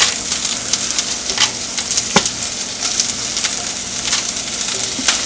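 Swiss chard leaves sizzling in hot coconut oil in a frying pan: a steady hiss with scattered crackles and pops.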